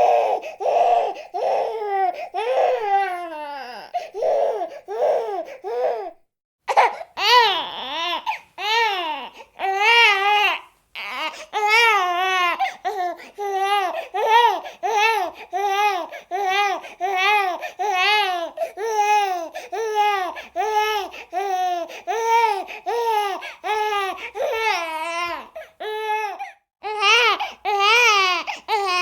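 A baby crying in short, high-pitched rhythmic wails, about two a second, with brief pauses for breath a few times.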